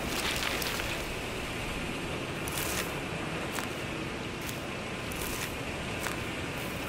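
A bird's dust bath: short dry scratchy rustles of flicked dust, every half second to a second, over a steady rushing hiss.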